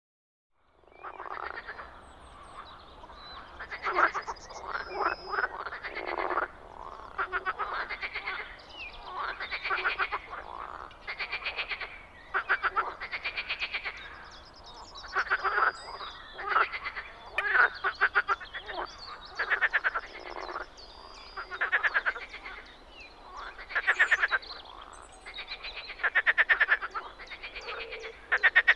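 Several marsh frogs (Pelophylax ridibundus) calling in chorus: rapid rattling croaks about a second long, repeating and overlapping. They begin about a second in.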